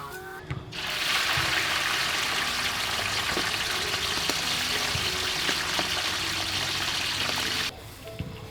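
Water running steadily, starting suddenly about a second in and cutting off abruptly near the end.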